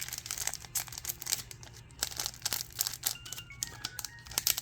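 Trading-card booster pack wrappers crinkling and tearing as packs are opened and the cards handled, in a run of irregular rustles. A few faint short tones sound near the end.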